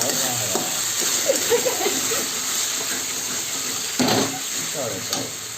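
Potatoes and chicken frying in hot oil in a pan, a steady sizzle, with a sharp knock about four seconds in.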